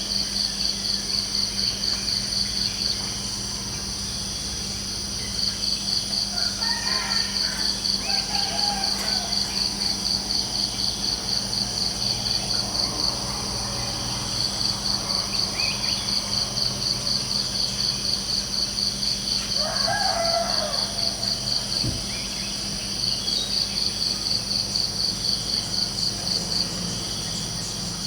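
Insects chirping in a steady, evenly pulsed high-pitched chorus that pauses briefly a few times, with a few distant bird calls in the background.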